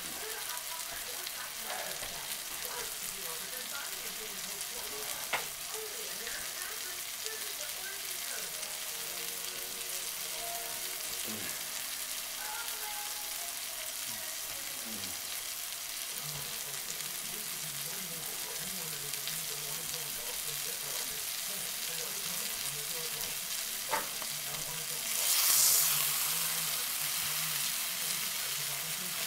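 Spiced chicken breasts frying in butter in a nonstick pan, a steady sizzle with a couple of sharp clicks. Near the end the sizzle briefly grows louder as the chicken is moved in the pan.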